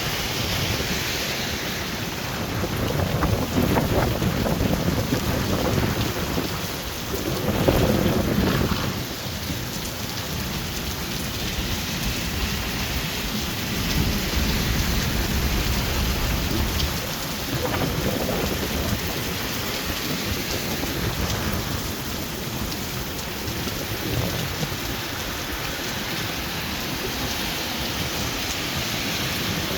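Heavy rain from a severe thunderstorm, pouring steadily, with several low rumbling swells; the strongest comes about eight seconds in.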